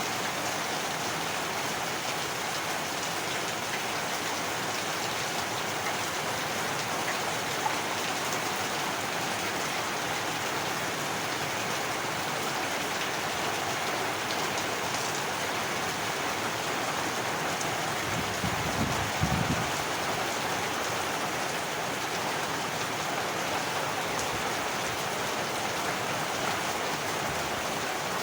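Heavy rain falling steadily, with a brief low rumble about two-thirds of the way through.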